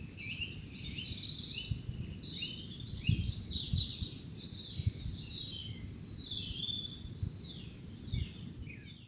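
Songbirds singing, a dense run of quick chirping and warbling notes throughout, over a low rumble of wind noise with a few irregular dull thumps.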